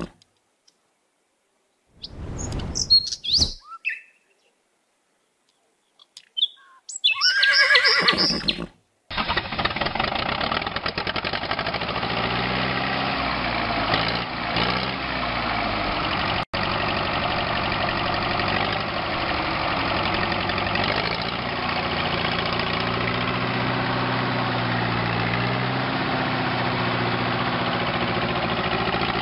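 A tractor engine sound starts about nine seconds in and runs steadily, its low pitch shifting slowly. Before it come two short animal calls with silence between them.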